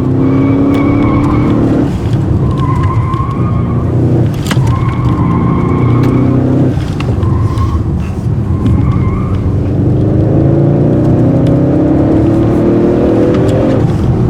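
Audi RS6's twin-turbo V8 under hard acceleration, its pitch climbing and then dropping at gear changes about two, seven and fourteen seconds in, with tyres squealing in the corners.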